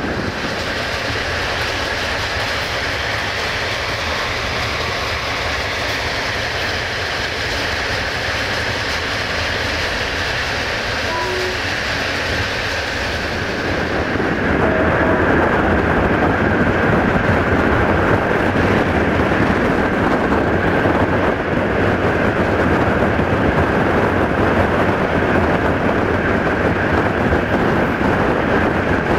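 Passenger train coach running at speed, the steady rolling noise of its wheels on the rails with a clickety-clack of rail joints and a faint steady whine. About halfway through the sound changes: the high hiss falls away and the rumble gets louder.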